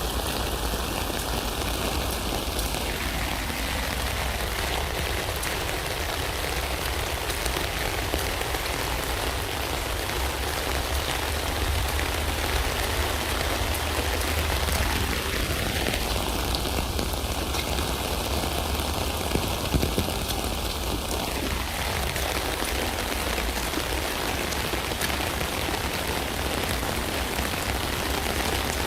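Steady rain falling on a tent, with individual drops ticking on the fabric.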